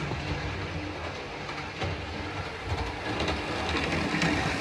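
Hornby model trains running around a layout: a steady motor hum with light clicking of wheels over the track, growing a little louder near the end.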